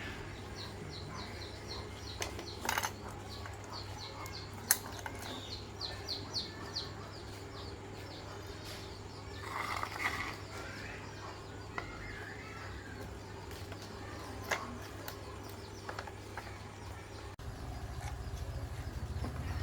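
A bird chirping in quick runs of high notes over a steady low hum, with a few sharp clicks. Near the end a low, rapid pulsing begins.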